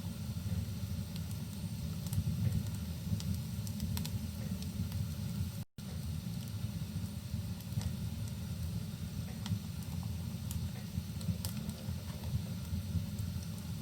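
Wood fire crackling, with scattered sharp pops over a steady low rush of rain. The sound cuts out for an instant about six seconds in.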